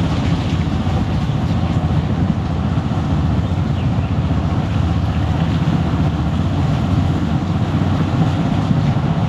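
Motorcycle on the move: a steady rumble of the engine mixed with wind noise on the microphone.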